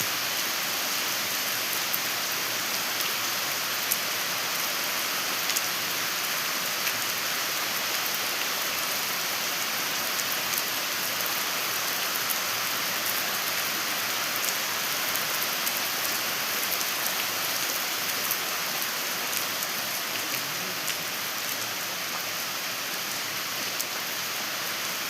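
Steady rain falling and hitting surfaces, an even hiss with scattered sharper drop ticks.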